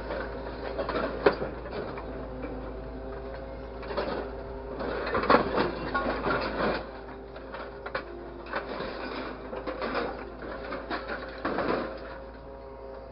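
A small motor whirring steadily, with irregular clicking and clattering over it.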